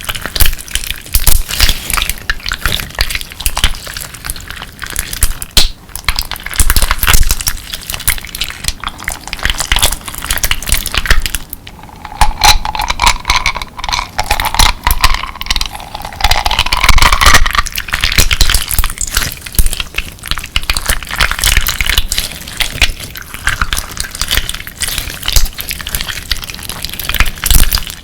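Clear slime full of colourful crystal pieces being squeezed and kneaded, giving dense, rapid crunching and crackling with wet squelches. In the middle a wavering squeaky tone rises and falls for about five seconds.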